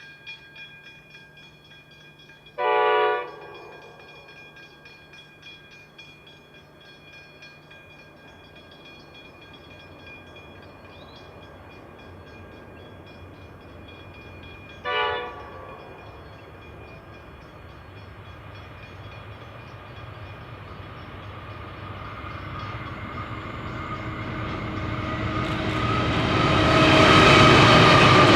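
Diesel locomotive horn sounding twice: a blast of about a second near the start and a shorter one about halfway. After that the train comes closer, growing steadily louder until it is loud near the end.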